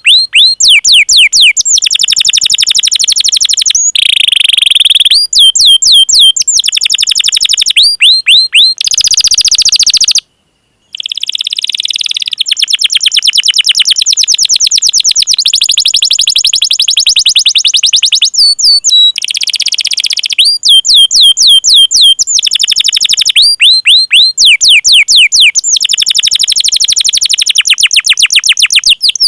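Domestic canary singing a long rolling song: fast runs of rapidly repeated high chirps and trills, phrase after phrase, mixed with sharp 'cuit cuit' call notes. The song breaks off for about half a second roughly a third of the way in.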